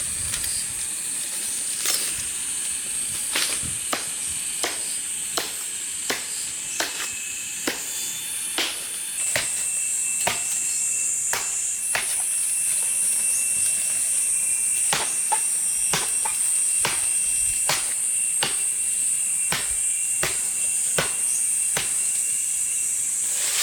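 Repeated sharp chopping blows, roughly one a second and a little irregular, as a blade hacks into plant stems while palm hearts are harvested, over a steady high-pitched hiss.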